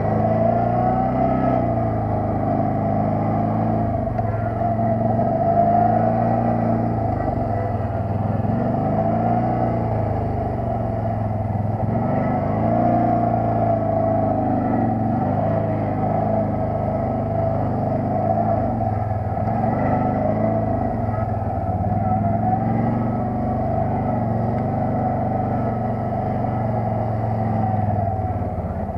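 ATV engine running under way, its pitch rising and falling again and again as the throttle is worked.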